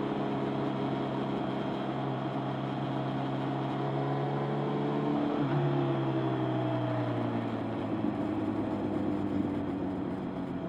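Motorcycle engine running while riding, steady at first. About halfway through its pitch shifts, then slowly falls as it slows.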